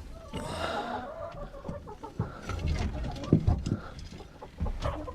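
Chickens clucking, with a harsh hen call about half a second in, over knocks and rustling.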